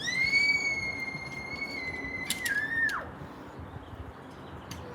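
A child's high-pitched squeal held on one steady note for about three seconds, dipping slightly and then sliding sharply down in pitch as it ends. A few short clicks fall near its end.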